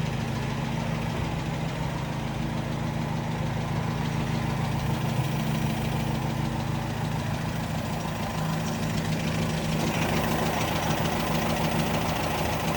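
1963 Wolseley 1500's BMC B-series 1.5-litre four-cylinder engine ticking over at a steady, smooth idle, like a little sewing machine. It gets a little louder and brighter from about ten seconds in.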